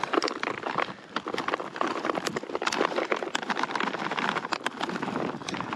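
Walnut halves and pieces pouring from a bag into a container: a dense, continuous patter of small clicks and taps as the nuts land.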